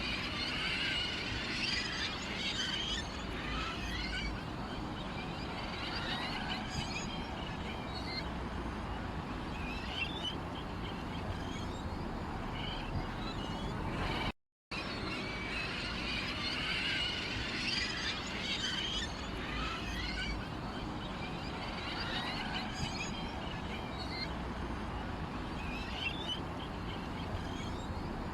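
Small birds chirping and twittering in many short, quick calls over a steady low background hum. The recording drops out for a moment about halfway through, then the same stretch of chirping repeats as a loop.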